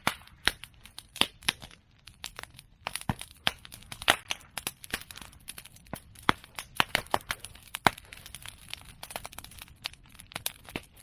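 A bonfire of cut bamboo and chestnut prunings crackling, with many sharp irregular pops and snaps several times a second.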